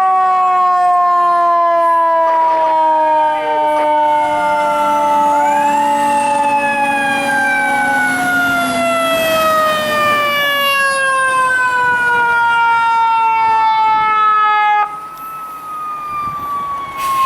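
Fire apparatus sirens wailing as the rigs respond. One siren's pitch falls slowly throughout, while a second winds up about five seconds in and then winds down again. The sound drops noticeably quieter about fifteen seconds in.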